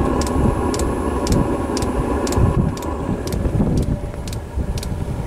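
Chinese diesel heater running, its burner and combustion fan making a steady rumble while the fuel dosing pump ticks about twice a second. It is freshly lit and still burning off oven-cleaner residue, with wind buffeting the microphone.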